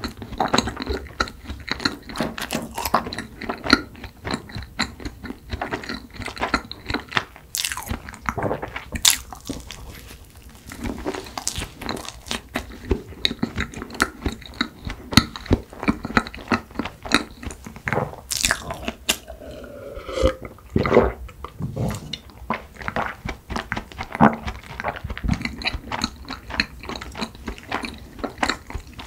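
Close-miked chewing of a mouthful of cream cake: wet, sticky mouth smacks and sharp irregular clicks, with no words.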